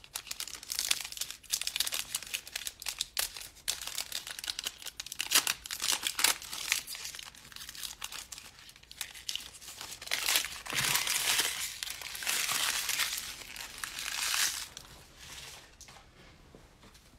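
Plastic foil wrapper of a trading card pack being torn open and crinkled in the hands, with a run of sharp crackles and a louder stretch of crinkling in the second half before it dies away.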